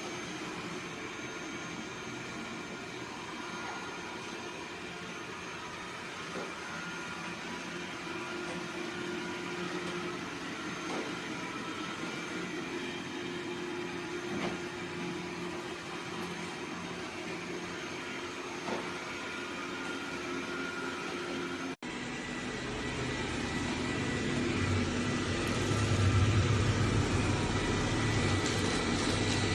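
Dreame D20 Pro Plus robot vacuum running: a steady motor whine with several held tones. After a sudden break about two-thirds of the way through, it runs louder, with a strong low hum.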